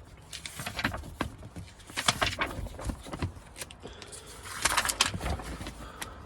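Rustling and light clicks of a paper service booklet being handled and its pages turned, with louder bursts of rustling about two seconds in and again near five seconds.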